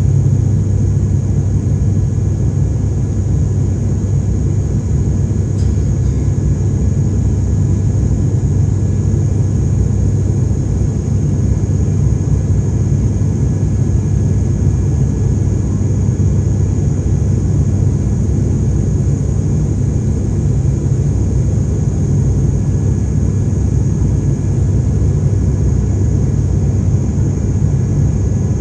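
Steady drone inside an airliner cabin in flight: engine and airflow rumble with a thin, high, constant whine above it.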